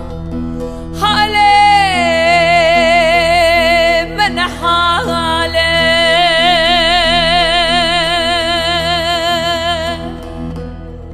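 Kurdish song: a female singer holds one long note with vibrato over a steady accompaniment from about a second in until near the end, where the voice stops and the backing carries on.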